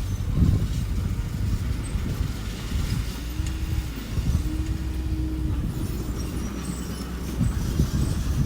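Engine of a small earthmoving machine running with a steady low rumble. About three seconds in, a higher whine rises, holds briefly and drops, and it does so again just after.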